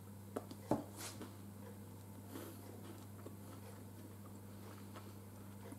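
Faint chewing of a soft chocolate sweet, with a few small clicks in the first second, over a steady low hum.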